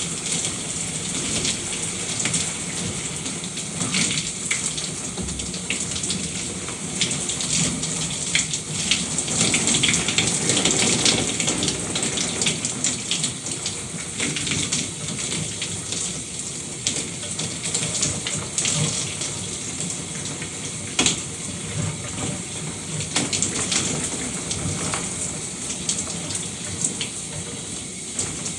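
Shower running steadily, water spraying and spattering with many small irregular splashes, a little louder for a few seconds near the middle.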